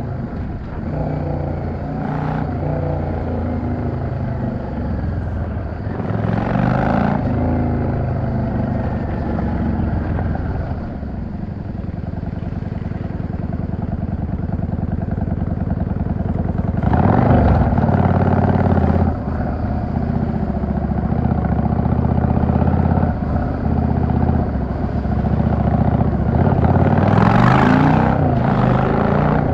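Yamaha XVS 650 V-Star (Drag Star) air-cooled V-twin running on the move, its pitch rising and falling as the throttle opens and closes. It grows louder in surges about six seconds in, around seventeen seconds in and near the end.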